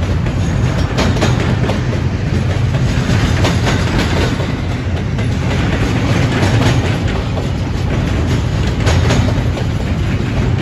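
Double-stack intermodal freight train's loaded container well cars rolling steadily past, a continuous low rumble with the wheels clicking irregularly over the rail joints.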